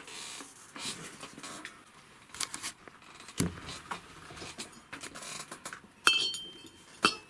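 Small metal parts and hand tools clinking and knocking as a Meyra Optimus 2 wheelchair's rear wheel is worked on by hand, with scattered light clicks and a sharper metallic click with a brief ring about six seconds in.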